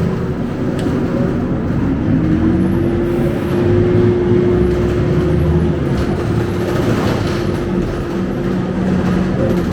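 Scania K270UB bus's rear-mounted diesel engine running, heard inside the passenger cabin: a steady low hum with a constant whine over it.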